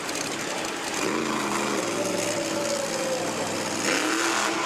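Monster truck engine revving: the pitch climbs about a second in, holds high for a couple of seconds, then drops back near the end.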